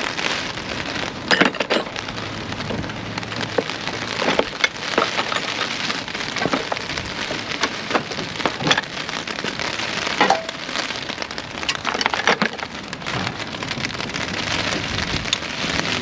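Rain falling steadily, with scattered clicks and knocks of hand tools being picked through in a plastic tool tray.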